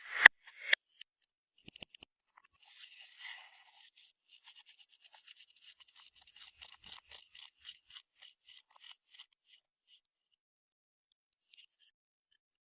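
Makeup being worked into clear slime: a fast, rhythmic scraping and squishing, about four strokes a second, after two sharp clicks at the start.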